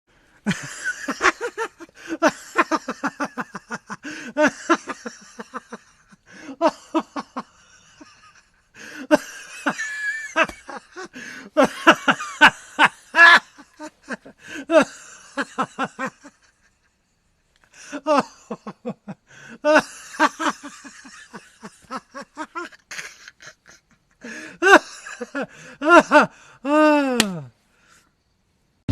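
A person laughing in repeated bouts of quick giggles, with short silent breaks between them. Near the end comes one longer cry that falls in pitch.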